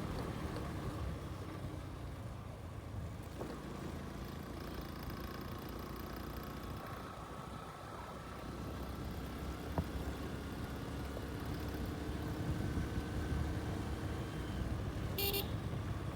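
Motorcycle engine running under way with a low rumble of road and wind noise. A brief horn toot sounds near the end.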